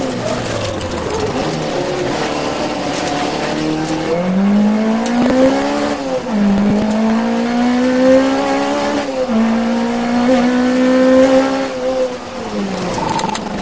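Peugeot 205 1.6 Mi16 rally car's 16-valve four-cylinder engine running hard on a stage. The revs sit low about a second in, then climb from about four seconds, with quick drops at two upshifts a few seconds apart, and fall away near the end as the driver lifts off.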